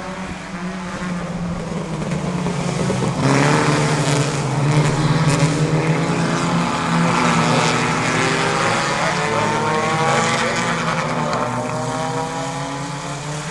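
Several race cars' engines running hard on the track, their pitch rising and falling as they accelerate and lift. The sound gets much louder about three seconds in and eases off toward the end.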